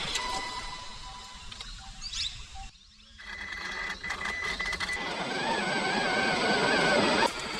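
Electric motor whine of a radio-controlled truck, its pitch wavering as the throttle changes, dropping away briefly about three seconds in.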